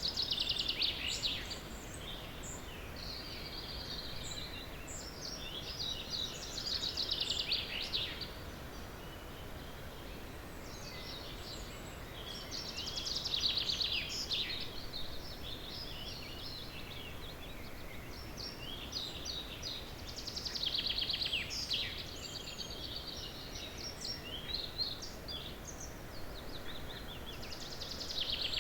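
Early-morning songbirds singing. One bird repeats a short song phrase, falling in pitch, about every seven seconds, with quieter chirps between, over a steady low background hiss.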